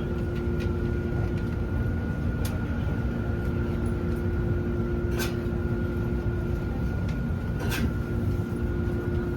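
Cabin noise inside a Keio 9000 series trailer car: a steady low rumble with a constant hum of the car's electrical equipment, and three sharp clicks about two and a half seconds apart.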